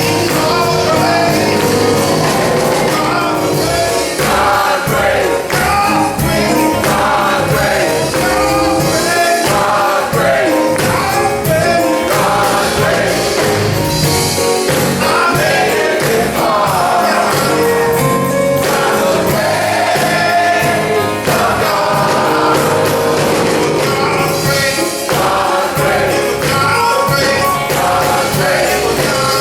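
A male chorus singing gospel music with band accompaniment and a steady beat.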